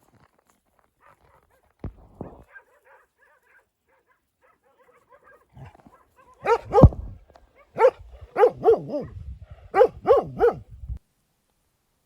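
A dog barking: about eight loud barks in three or four quick bunches in the second half, after a quieter start.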